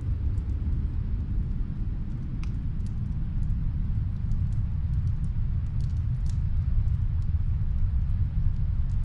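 Snowstorm wind blowing as a steady low noise, with a few faint crackles from a fireplace fire in the background.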